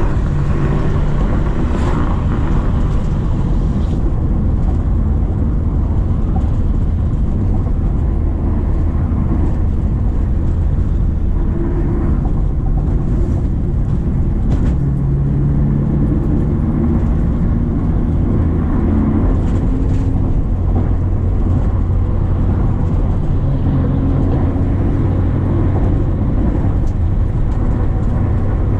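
Subaru Impreza XV 2.0's four-cylinder boxer engine running steadily under way, its pitch shifting a little now and then as engine speed changes, over steady tyre and road noise.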